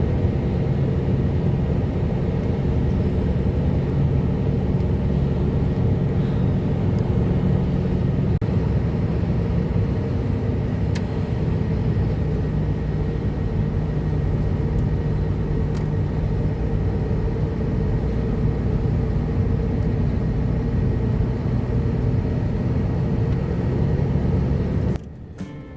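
Truck's diesel engine running steadily, a low even drone. It cuts off sharply near the end.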